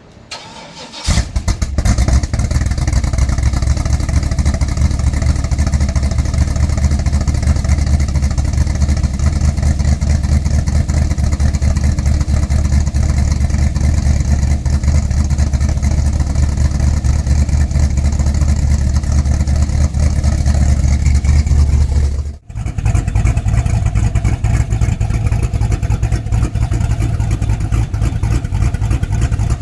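Cammed LS2 V8 in a Chevy C10 running through Carven Type R mufflers, a loud, deep exhaust note with a fast pulsing beat. It comes in abruptly about a second in, breaks off briefly near 22 seconds, then carries on.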